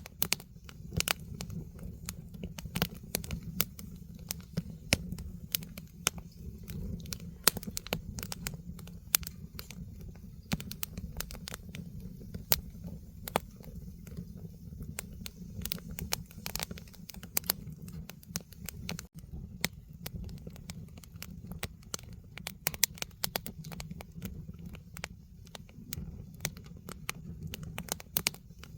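Firewood burning in a fire pit, crackling with many irregular sharp pops over a steady low rumble.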